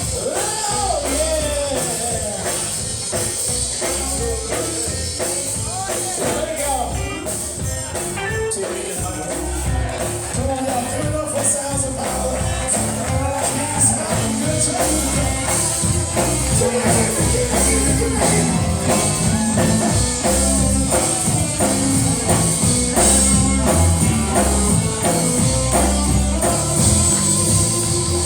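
Live gospel band music: drum kit, bass and tambourine playing a steady beat, with singing over it.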